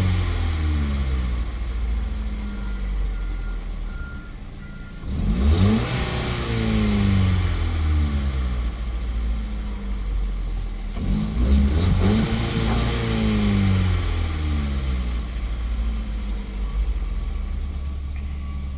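2012 Ford Fiesta's 1.6-litre four-cylinder petrol engine running and being revved twice, about five and eleven seconds in. After each rev the engine speed falls back to a steady idle.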